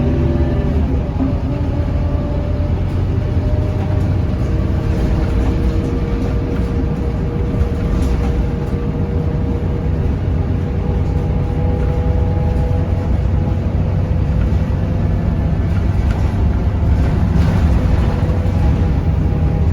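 Scania K230UB bus with a ZF automatic gearbox under way: a steady diesel engine drone with a thin gearbox whine over it. A second, higher whine joins about halfway through.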